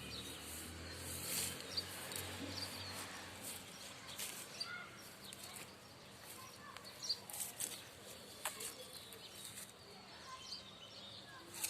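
Faint garden birds chirping, with short scattered calls and a few sharp clicks. A low hum fades out about two seconds in.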